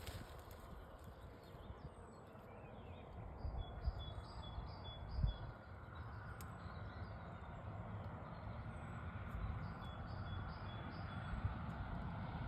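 Faint birdsong: a bird calling in runs of quick, high, repeated notes, once about two seconds in and again near the end, with a few other scattered chirps, over a steady low rumble of outdoor noise.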